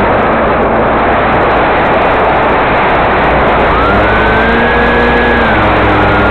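Model floatplane's electric motor and propeller whining as the plane flies past, over a loud steady rushing noise. The whine comes in a little over halfway through, rises briefly, then holds steady.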